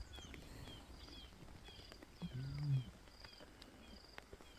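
A lion gives one short, low call a little after halfway in, over faint high chirps repeating about twice a second.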